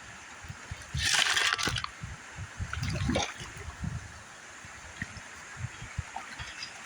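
River water running steadily, with two short bursts of splashing and sloshing, about a second in and again about three seconds in.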